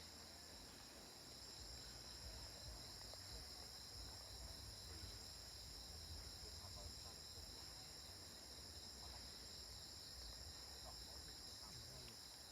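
Faint, steady insect chorus: a high, even trill like crickets.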